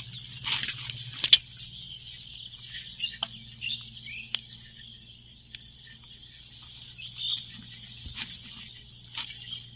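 Bird chirps over a steady high-pitched drone and a low hum, with a few sharp knocks, the loudest about a second in.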